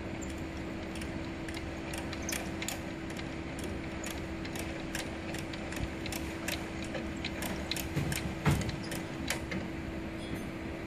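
The mechanical frequency-tuning mechanism of a Polarad 1106B microwave signal generator being cranked by hand, giving irregular clicking and gear-train noise, a little louder about eight seconds in, over a steady hum.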